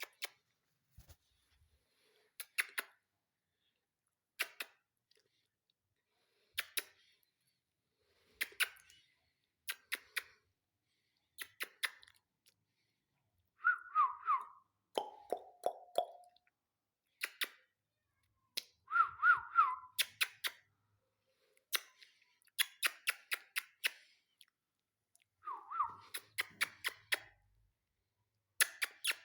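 Ringneck parrot making clusters of sharp clicks every couple of seconds, with a few runs of short, quickly falling whistled notes.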